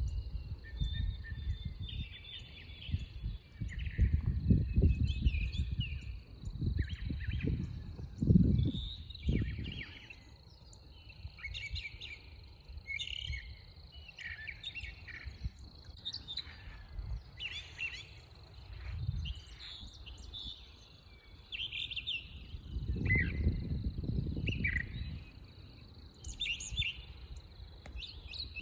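Several wild birds chirping and singing in short phrases, with a faint steady high-pitched tone behind them. Bursts of low rumbling noise come and go, loudest about a third of the way in and again near the end.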